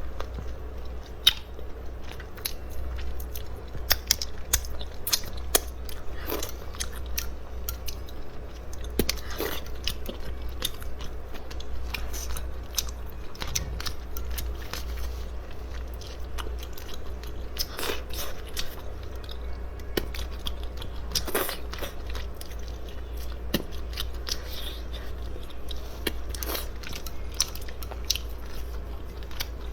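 A person chewing and biting food up close, with frequent short crunching clicks, over a steady low hum.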